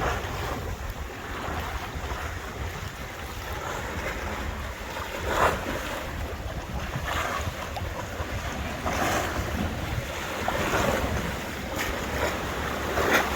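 Small tour boat under way at sea: wind buffeting the microphone over a steady low rumble, with water rushing and splashing past the hull in several louder surges.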